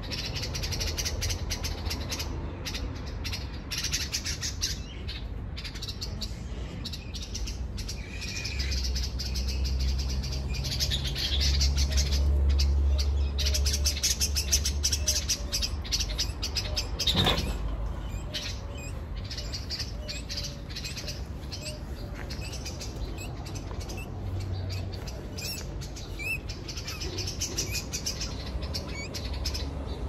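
Small bird chirping rapidly and repeatedly in high-pitched calls, with a low rumble that swells in the middle and one sharp sound a little past halfway.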